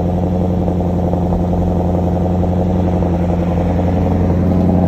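Audi S5 engine idling steadily shortly after a cold start, with a steady exhaust hum that grows slightly louder near the end.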